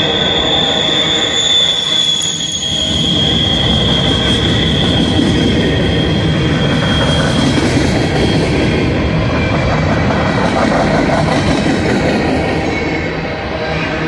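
Coal hopper cars rolling past on a curve, the wheels rumbling steadily over the rails. A high, steady wheel squeal from the curve is strongest early on and fades out about seven seconds in.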